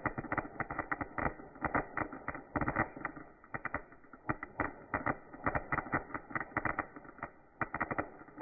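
Fireworks going off: a dense, irregular string of sharp pops and bangs, several a second.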